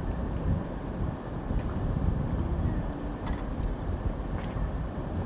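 Steady low rumble of vehicle engines, with a few faint clicks.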